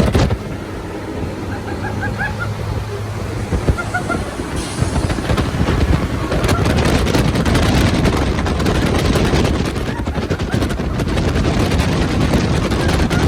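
Hurricane-simulator fans blasting a gale through the booth, with the wind buffeting the microphone. The rush builds sharply about four to five seconds in and stays loud and gusty after that.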